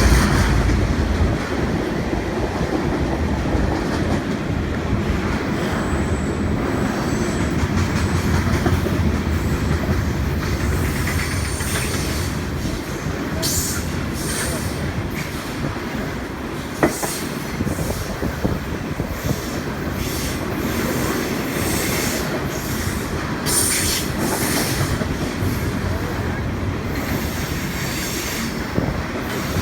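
CN freight train rolling past: a steady rumble of railcar wheels on the rails, heaviest in the first second or so, with sharp clicks from the rail joints and brief high-pitched wheel squeals scattered through it.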